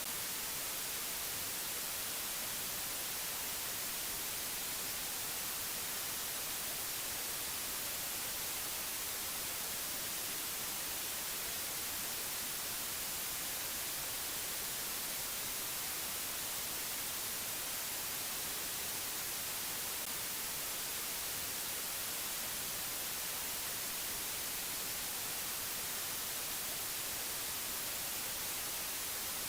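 Steady hiss like white noise, loudest in the high frequencies, unchanging throughout with no other sounds.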